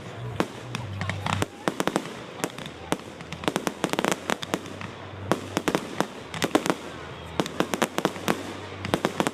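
Fireworks going off: many irregular sharp bangs and crackles, often in quick clusters, over a low steady rumble.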